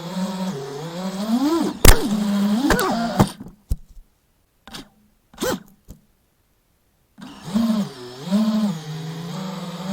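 FPV quadcopter's brushless motors and propellers whining, the pitch rising and falling with throttle. A sharp crack comes about two seconds in. The sound then drops out for about four seconds, broken by a few short clicks, before the motor whine returns.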